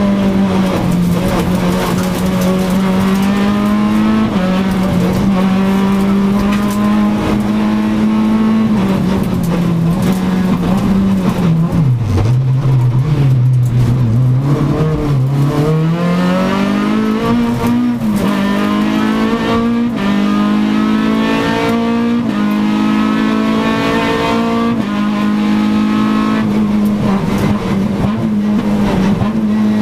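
Renault Clio RS rally car's four-cylinder engine, heard from inside the cabin, held at high revs, dropping sharply as the car slows about ten seconds in, then revving up again through several quick gear changes, each a rising pull cut by a short drop.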